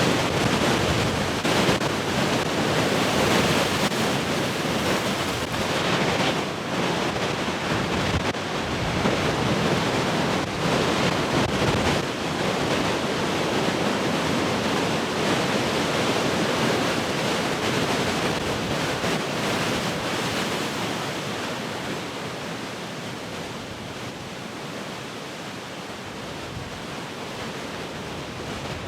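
Heavy ocean surf: big waves crashing and washing in a continuous roar of surging noise that eases to a lower, steadier wash in the last third, with wind buffeting the microphone.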